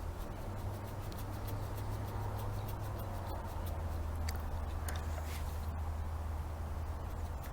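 A steady low hum with faint, scattered clicks and small handling noises, as of small parts being worked by hand.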